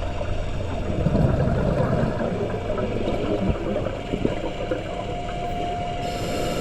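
Underwater scuba breathing heard through a dive camera housing: exhaled bubbles from the regulator rumble, loudest about a second in. Near the end comes the hiss of an inhalation through the regulator.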